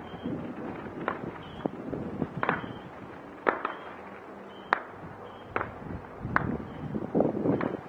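Fireworks bursting: about ten sharp bangs at uneven intervals, with a denser spell of crackle about seven seconds in.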